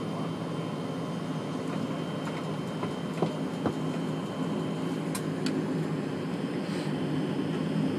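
Cabin noise of an Embraer ERJ-145 regional jet, its turbofan engines running with a steady rumble and hum and a thin high whine. There are two sharp knocks about three and a half seconds in, and the noise grows slightly louder toward the end.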